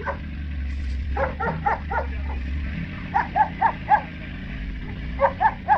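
A dog barking in quick bursts of four or five barks, three bursts in all. Under the first half runs a low steady rumble that stops a little before the middle.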